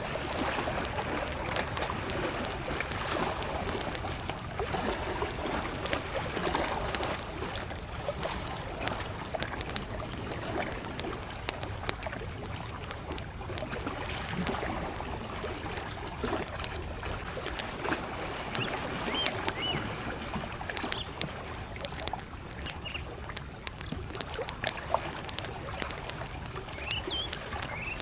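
Campfire crackling, with frequent sharp clicks over a steady wash of small waves lapping at the lake shore. A few short bird chirps come in during the last third.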